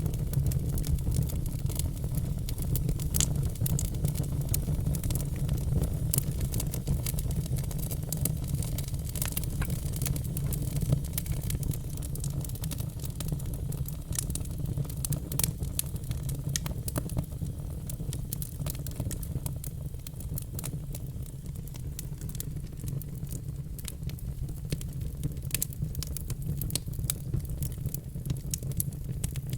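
Log fire in a fireplace crackling: many irregular sharp pops and snaps over a steady low rumble of the flames.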